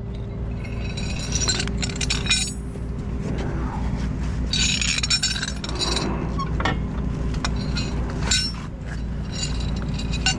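Bursts of light metallic clinking and jingling, in a few clusters, over a steady low engine idle.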